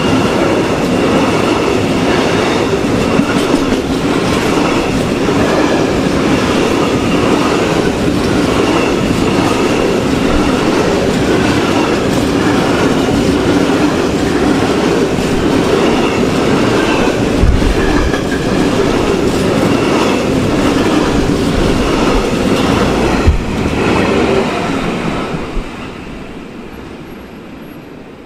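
Freight train of cement tank wagons rolling past close by: steady rolling noise and wheel clatter over rail joints. A sharp knock comes near the end of the train, and then the noise fades away as the last wagon passes.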